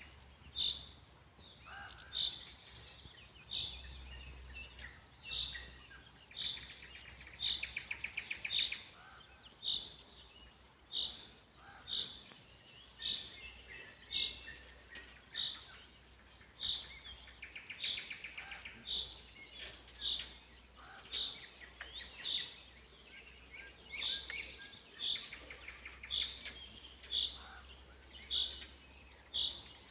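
Songbirds singing: a short high chirp repeated about once a second, with a rapid trill breaking in three times.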